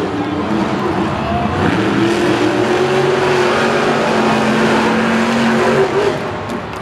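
Monster truck supercharged V8 engines running hard on the racetrack, a steady engine tone rising slightly in pitch through the middle and easing off about six seconds in.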